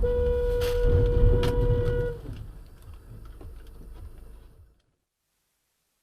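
Vehicle rumble with a steady single-pitched tone held for about two seconds and two sharp knocks during it. The rumble then fades and the audio cuts out about three-quarters of the way through.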